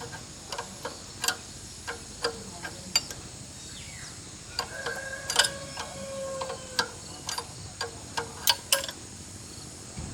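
Irregular sharp clicks and light taps, roughly one or two a second, with a brief squeak in the middle.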